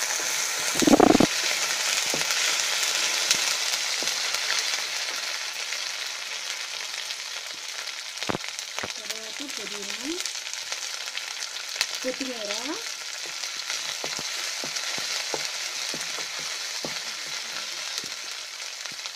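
Chopped onions and green chillies sizzling in hot oil in a metal kadai, being fried until brown, with a wooden spatula scraping and tapping the pan. A loud thump about a second in; the sizzle eases a little after a few seconds.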